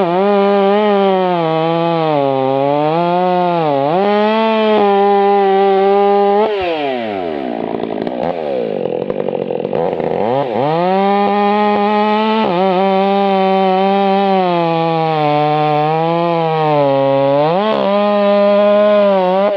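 Two-stroke chainsaw running at full throttle and cutting wood, its pitch dipping and recovering as the chain loads in the cut. About six and a half seconds in it drops to idle, then revs back up about ten seconds in and cuts again, falling off right at the end.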